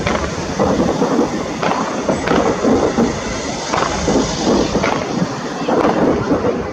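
Fireworks going off in a steady run of bangs and crackling, one burst after another every second or so.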